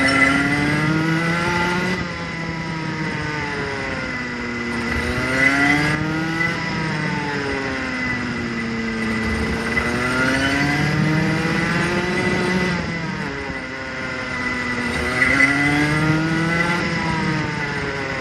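Rotax Junior Max 125 single-cylinder two-stroke kart engine being run in, repeatedly accelerating up and backing off, its pitch rising and falling about four times with a steady high whine over it. It is being cycled between about 6,000 and 10,000 RPM to heat-cycle the new engine and bed in the piston ring.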